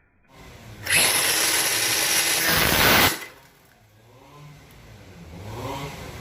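Bosch GWS 18V-LI cordless angle grinder running loud under load for about two seconds, then cutting off abruptly. A quieter motor whine follows, rising in pitch near the end.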